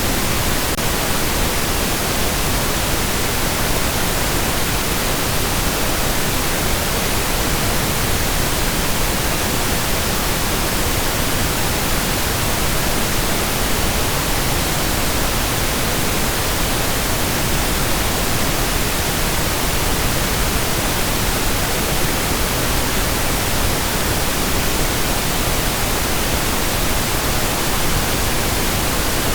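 Steady synthesised pink noise: an even, unchanging hiss spread across all pitches.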